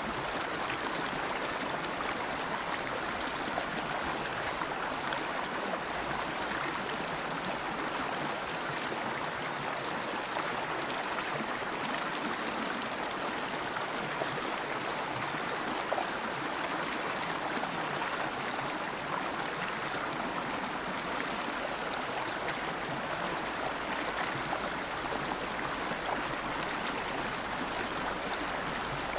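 River water flowing steadily over rocks: a continuous rushing with small splashes and gurgles throughout.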